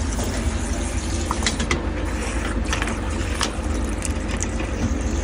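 Steady low hum and rushing noise of running machinery, with a few sharp clicks in the middle.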